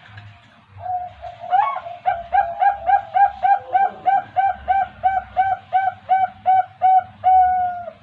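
Zebra dove (perkutut) cooing: a rapid run of short, repeated coos, about four a second, that ends in one longer drawn-out note.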